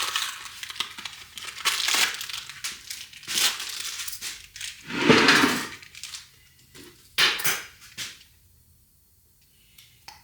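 Crinkling and rustling of packaging as a new tapered wheel bearing is handled and unwrapped, loudest about five seconds in, then stopping about two seconds later, with a few light knocks of parts near the end.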